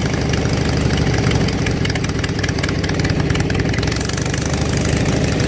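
Riding lawn mower engine running steadily at a constant speed, close by.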